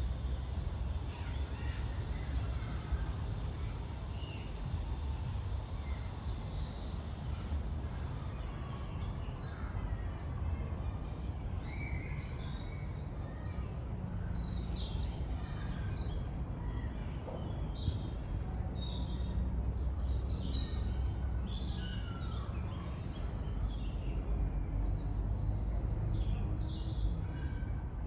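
Several wild birds singing and chirping over a steady low background rumble, the birdsong growing busier about a third of the way in.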